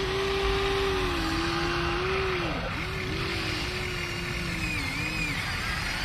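Small electric gear motors of radio-controlled construction models whining as they work, the pitch sagging and recovering several times as the load changes.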